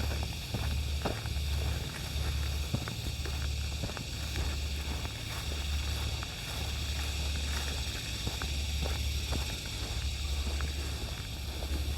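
Footsteps of a person walking along a park trail: irregular light crunches and taps over a steady high hiss and a low pulsing rumble.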